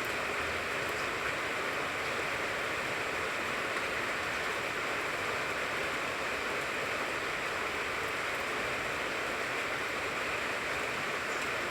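Steady rain falling on a tangerine tree, an even hiss that neither builds nor eases.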